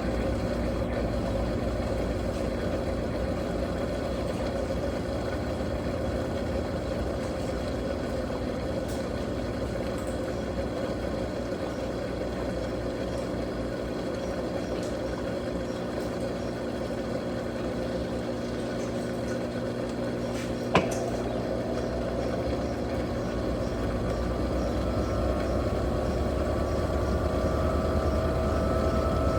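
Electrolux Turbo Capacidade Premium 15 kg top-loading washing machine running with a steady mechanical hum. About two-thirds of the way through there is a sharp click, after which a whine slowly rises in pitch.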